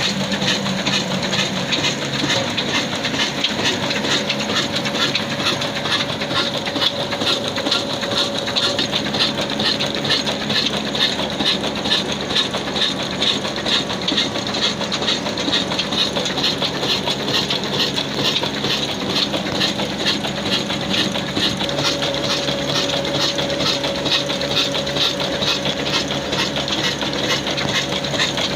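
A 22-horsepower old black diesel engine running steadily under load, driving a wheat flour mill, with a fast, even mechanical beat and the mill's hiss and rattle mixed in.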